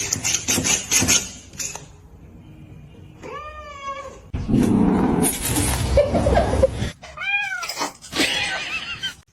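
A cat meowing twice, each meow a call that rises and falls in pitch, separated by stretches of noisy clatter and rustling.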